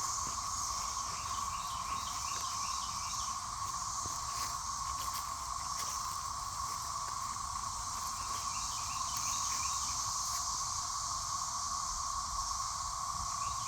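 Dense chorus of periodical cicadas: a steady, unbroken drone held at one pitch, with a higher pulsing hiss over it.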